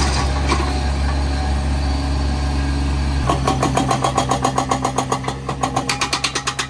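A compact construction machine's engine running steadily. About three seconds in, a rapid, regular hammering of about six strokes a second starts over it as the machine works at a post set in concrete and rebar.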